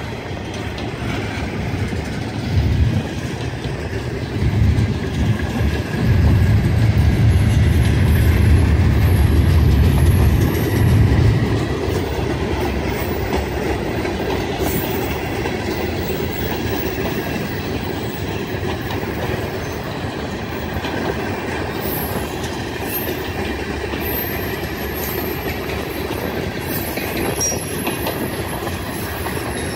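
A train rolling past on the rails: steady wheel-on-rail noise, with a heavier low rumble for the first ten seconds or so, then a steady run of passing cars with faint high squeals in the second half.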